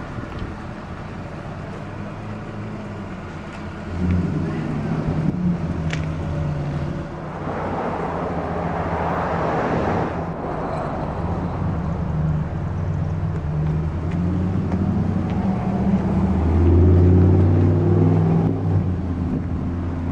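Nissan Stanza's 2.4-litre four-cylinder engine idling with a steady low hum, which grows louder about four seconds in and again near the end. A swell of rushing noise comes and goes around the middle.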